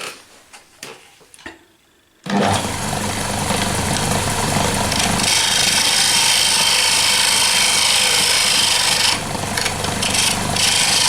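A small wood lathe's motor starts about two seconds in and runs steadily while a pointed tool scrapes into the spinning wooden handle blank, with brief dips near the end.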